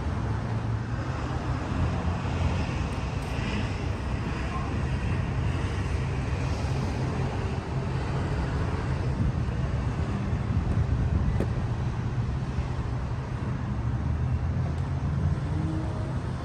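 Steady low mechanical rumble with a constant hum, with a few faint clicks.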